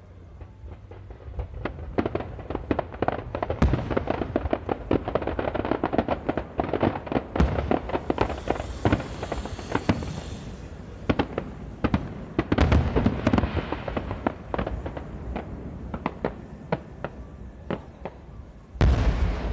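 Aerial firework shells bursting in rapid succession, a dense run of sharp bangs and crackling pops, with one loud deep boom near the end.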